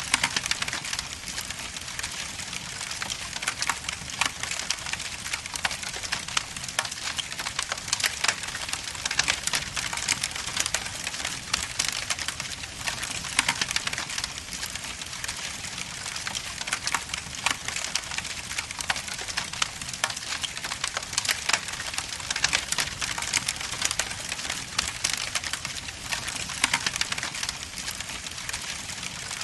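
Wood logs burning in an indoor fireplace, crackling and popping continuously, with many small sharp snaps over a steady hiss.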